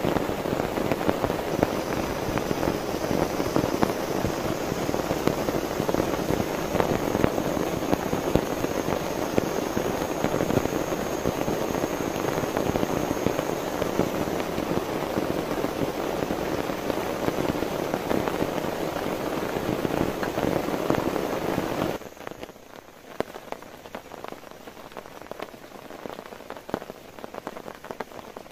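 Heavy rain falling on a tarp shelter, a dense mass of individual drop impacts. About three-quarters of the way through it drops suddenly to quieter, lighter rain and dripping.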